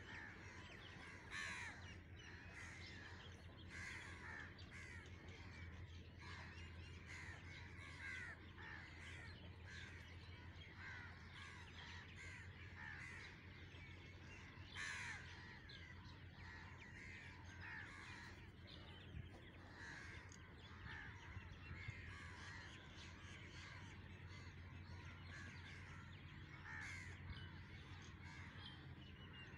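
Birds calling in a busy chatter of many short calls, several a second, a few louder ones standing out, over a low steady hum.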